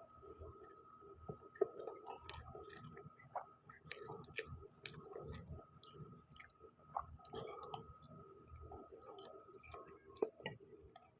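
Close-miked chewing of spicy noodles, with wet mouth clicks and smacks at an irregular pace. A faint steady high whine sits underneath and stops near the end.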